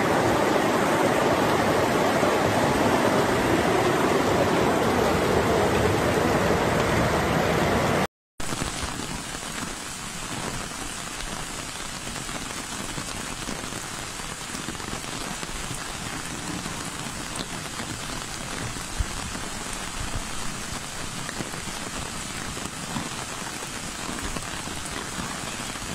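Heavy rain and rushing floodwater, a steady rushing noise. About eight seconds in it breaks off for a moment and comes back quieter.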